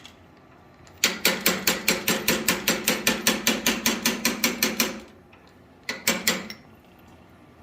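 Blacksmith's hand hammer striking steel on an anvil: a rapid run of blows, about six a second, for roughly four seconds, then two more strikes after a short pause.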